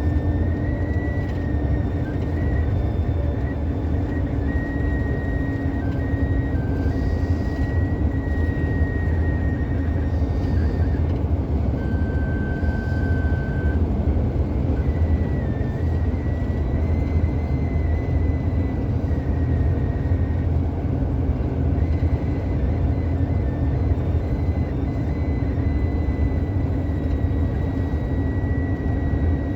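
Steady road and tyre rumble with engine drone inside a police car's cabin at highway speed, with a faint, slightly wavering high whine.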